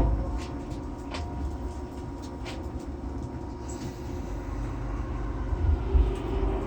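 A JR East E231 series 800 electric commuter train heard from inside the car: a heavy low thud, then the train running with a low rumble and a faint steady electric hum from its traction equipment, growing gradually louder. Two dull knocks come near the end.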